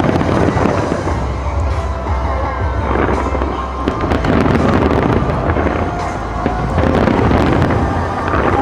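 Fireworks show: rapid, continuous bangs and crackles of bursting aerial shells, with music playing underneath.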